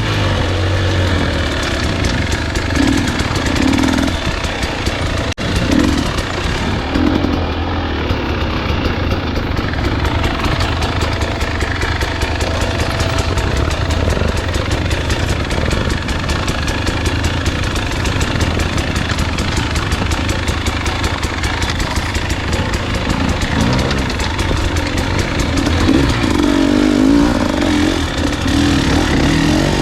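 Dirt bike engine running and revving continuously as the bike is ridden along a trail, its pitch rising and falling with the throttle.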